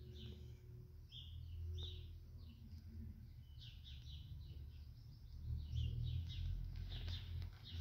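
Small birds chirping, many short high calls in quick clusters, busier in the second half, over a low uneven rumble that grows louder near the end.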